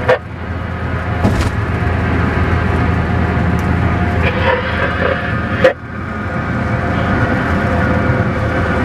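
Steady road and engine noise of a car driving, with a sharp click just at the start and a louder one a little past halfway.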